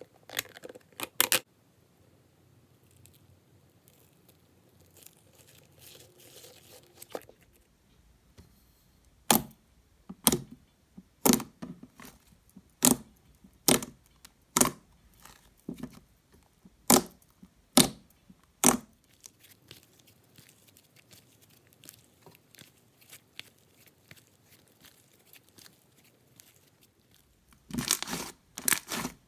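Thick, glossy homemade slime being played with up close. Faint squishing comes first, then about a dozen sharp clicking bubble pops, roughly one a second, and a dense run of crackling clicks near the end.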